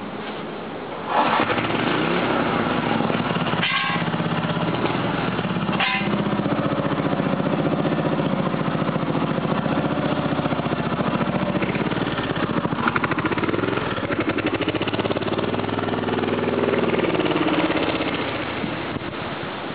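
Briggs & Stratton 5 hp single-cylinder engine on a homemade motorcycle running hard under load, coming in loud suddenly about a second in as it pulls away. Its pitch rises and falls in the last few seconds and it gets a little quieter near the end.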